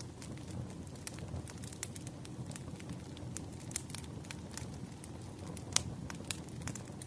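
Campfire crackling: a steady low rumble of burning wood with irregular sharp pops and snaps, two of them louder near the end.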